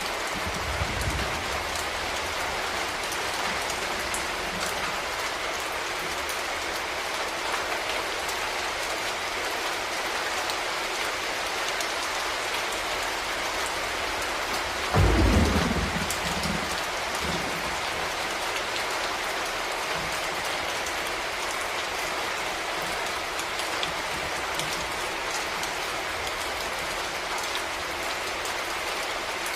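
Steady rain falling, an even hiss of drops. About halfway through, a short loud low clap of thunder rumbles and dies away over a second or two.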